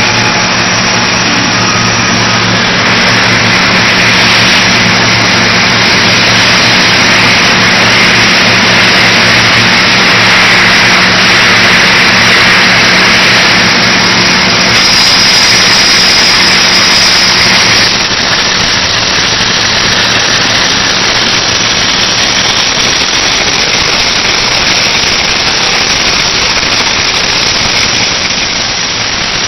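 Large tandem automatic welding machine running: a steady electrical hum under a continuous hiss, easing a little about two-thirds of the way through.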